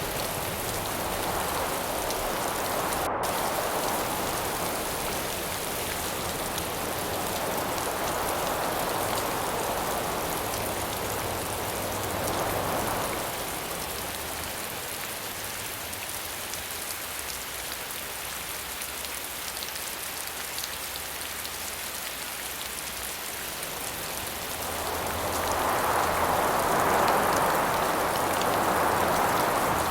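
Steady rain falling, with gusts of wind swelling and fading over it: a few seconds in, again in the middle, and strongest near the end.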